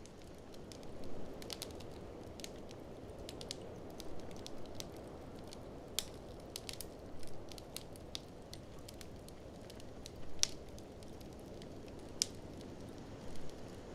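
Wood fire crackling in a fireplace, with sharp irregular pops, the loudest a little past halfway and again near the end. Under it runs a steady low rushing noise, the blizzard wind of the mix.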